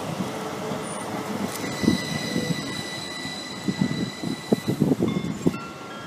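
Multiple-unit passenger train moving through the station: a steady high whine from the train for a couple of seconds, then a run of irregular wheel knocks over the track joints as it pulls away.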